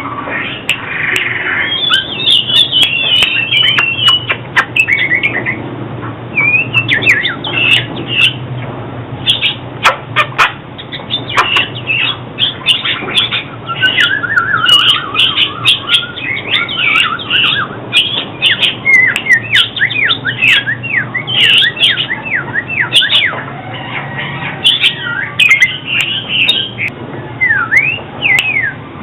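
Oriental magpie-robin singing without a break: a fast, varied run of clear whistled notes, chirps, trills and rising and falling slurs.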